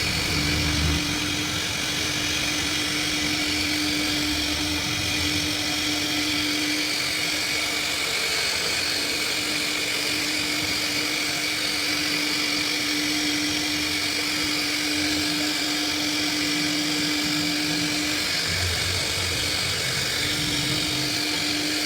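CNC router spindle running steadily at high speed while it cuts into a wooden door frame, clearing the background around a carved design. It makes a constant high whine, and a lower hum drops out twice for a second or two.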